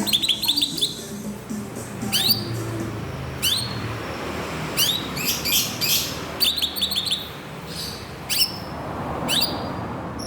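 Green leafbird (cucak ijo) singing: bursts of quick, sharply rising chirps repeated every second or two, with music underneath.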